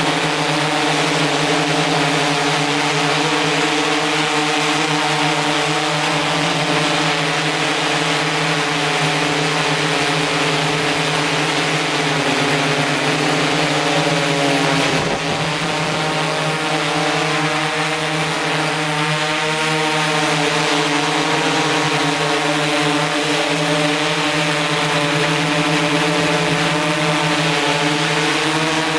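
DJI S800 hexacopter's motors and propellers running with a steady multi-tone hum over a rushing hiss, the pitch wavering slightly as the motors speed up and slow down.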